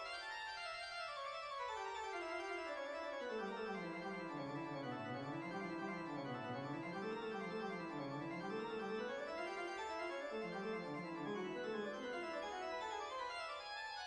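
Organ music playing fast runs of notes that sweep downward over the first few seconds, wind up and down in the low range through the middle, then climb again near the end.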